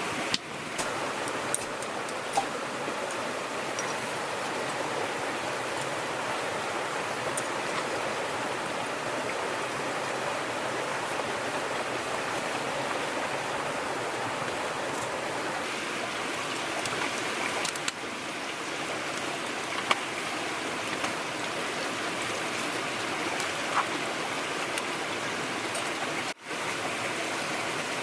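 Steady rushing noise of running water, with a few faint scattered clicks.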